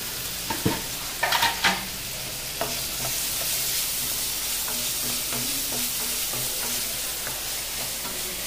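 Chopped chicken sausage and onions frying in oil in a kadai, sizzling steadily while being stirred, with a few knocks and scrapes against the pan in the first two seconds.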